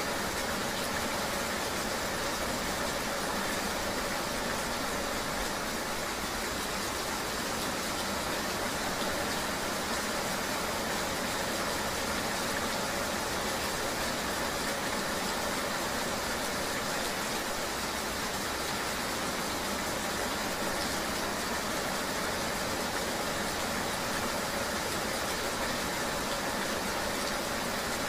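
Steady rain-and-vehicle ambience: an even, unbroken rushing noise with an engine running underneath.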